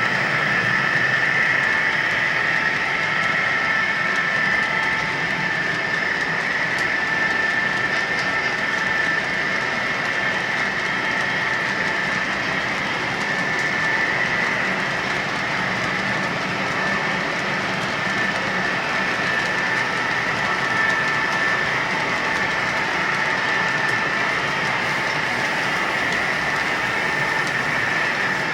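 HO scale model train running on the layout: a steady rolling sound with a constant high whine.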